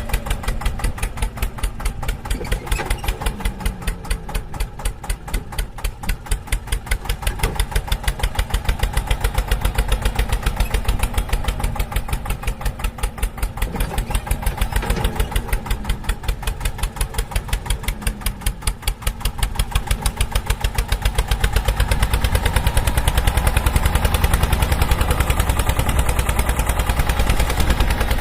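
An engine running with an even, rapid chug, its low rumble growing louder about three-quarters of the way through.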